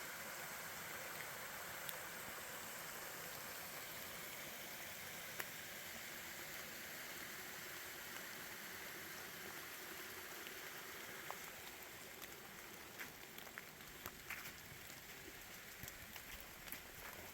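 Steady rain falling, a soft even hiss that eases slightly about twelve seconds in, with a few light ticks near the end.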